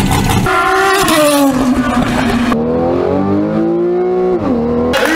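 Car engines revving in a quickly edited sequence: a deep engine note that cuts to a higher engine note falling in pitch, then another cut to an engine climbing steadily in revs whose pitch drops sharply about four seconds in.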